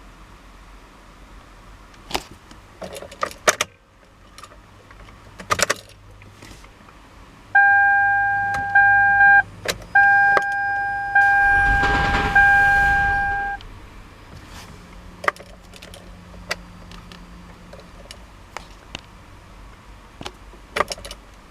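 Clicks and jingling like keys, then a loud electronic warning tone, two pitches together, sounding in four long stretches with short breaks over about six seconds, with a brief rush of noise in the middle. It is most likely the 2007 Toyota Highlander Hybrid's warning beeper during a failed start.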